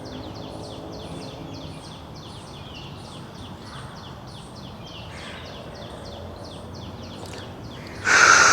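A bird chirping over a low background hum: short high notes, each falling slightly, repeated evenly about four times a second. About eight seconds in, a sudden loud rush of breathy noise starts and fades over about a second and a half.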